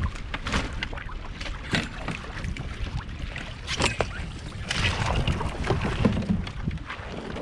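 Water lapping and splashing against a kayak hull, with wind rumbling on the microphone and many small irregular knocks and splashes.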